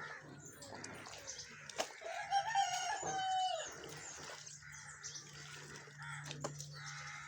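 A rooster crowing once, a single drawn-out crow starting about two seconds in, with faint scattered clicks around it.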